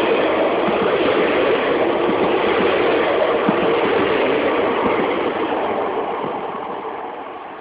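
A train running past on the line, a loud steady rush of wheels on rails that begins to fade about five and a half seconds in as it draws away.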